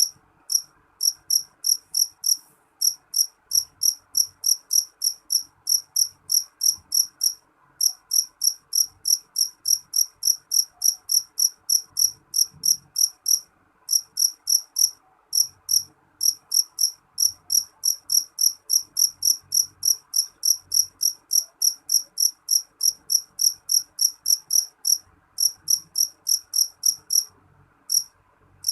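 A cricket chirping in a steady, even series of short, high-pitched chirps, about three to four a second, broken by a few brief pauses.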